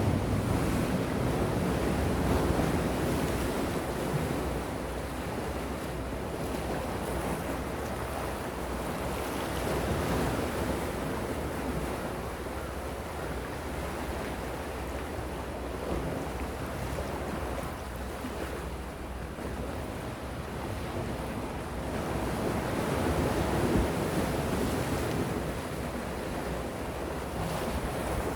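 Calm sea waves washing in and drawing back, the surf swelling louder a few times and then easing. A low wind rumble on the microphone runs underneath.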